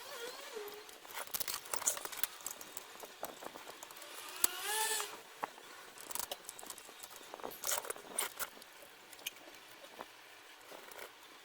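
Irregular light clicks and taps, with a short squeaky, wavering pitched sound about four and a half seconds in.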